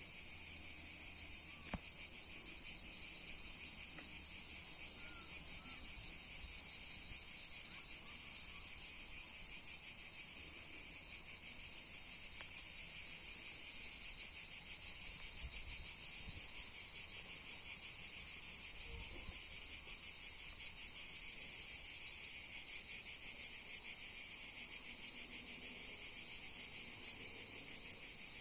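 Cicadas singing: a continuous, high, rapidly pulsing buzz that holds steady throughout.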